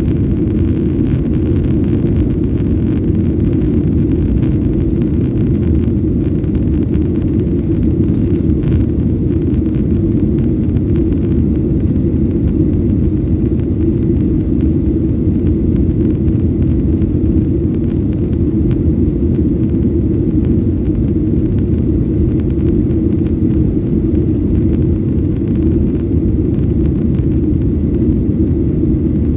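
Steady low cabin noise inside a Boeing 737-800 airliner: its CFM56 jet engines and the airflow along the fuselage make an even, deep rumble that holds level throughout.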